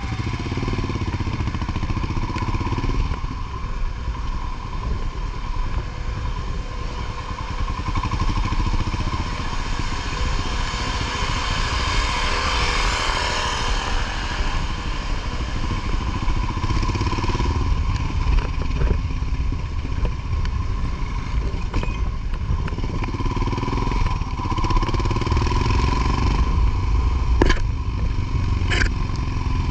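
Motorcycle engine running steadily under way, a continuous low rumble, with a swell of noise about halfway through and two sharp clicks near the end.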